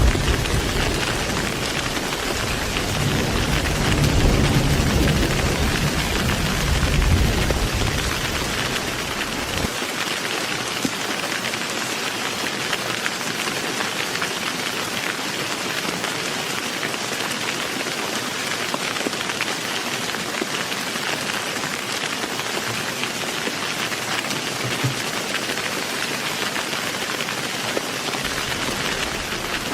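Heavy rain falling steadily with an even hiss. Thunder rumbles low under it for the first ten seconds or so, swelling twice, then cuts off suddenly, leaving only the rain.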